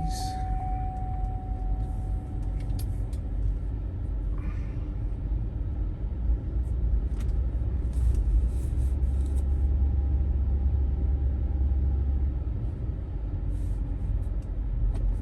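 A car running on the road, heard from inside: a steady deep engine and road rumble that grows heavier for a few seconds in the middle.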